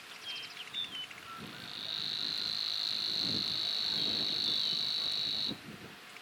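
Savi's warbler reeling: a steady, high buzzing trill that starts about a second and a half in, holds for about four seconds and cuts off suddenly. A few short bird chirps come before it.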